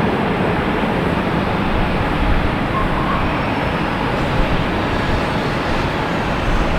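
Steady roar of a jet airliner's engines, with a faint high whine that slowly falls in pitch midway through.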